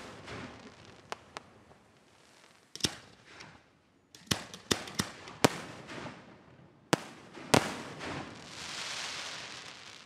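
Aerial firework shells bursting in a string of about nine sharp bangs, several in quick succession around the middle, followed near the end by a long crackling hiss.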